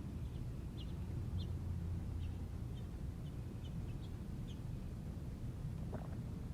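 Birds chirping: a scattered series of short, high chirps over a steady low rumble.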